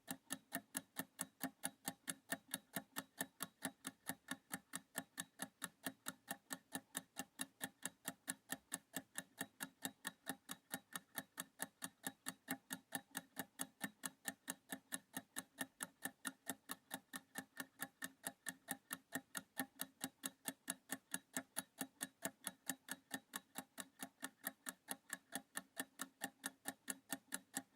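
Countdown-timer clock ticking: fast, even ticks, about four a second, steady throughout the 30-second reading pause.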